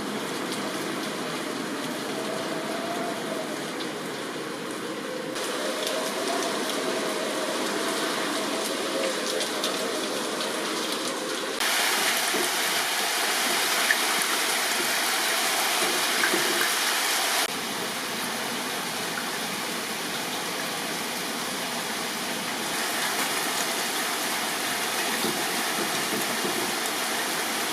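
Heavy typhoon rain pouring down steadily, a dense hiss of water that grows louder for several seconds in the middle and then drops back.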